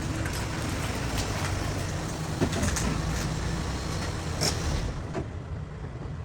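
A 2002 Ford AU Falcon's engine idling with a steady low rumble, heard from inside the cabin over an even hiss that drops away about five seconds in. A few light clicks are heard over it.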